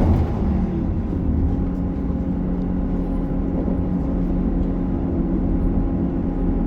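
Interior running noise of a diesel passenger train in motion: a steady rumble with a low engine hum and a thin steady whine that comes in about a second and a half in.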